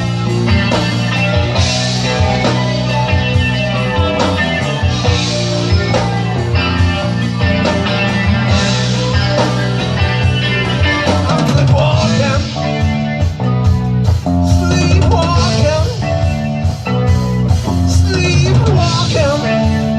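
Live rock band playing an instrumental passage with electric guitar, bass and drum kit, a lead guitar line bending and wavering from about halfway through.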